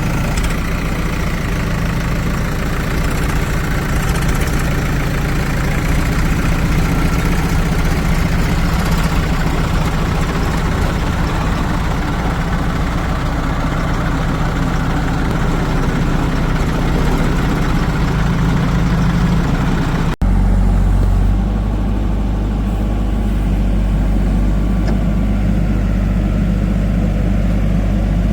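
Heavy diesel engine running steadily. About twenty seconds in, the sound cuts abruptly to a different engine idling with a lower, deeper note.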